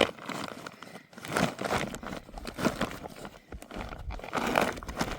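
Dry wild herb stems rustling, crunching and snapping as they are picked by hand, in irregular bursts, the loudest at the very start.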